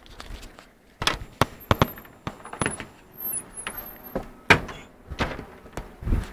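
A door being opened and gone through: a series of latch clicks and knocks, with a few brief high squeaks.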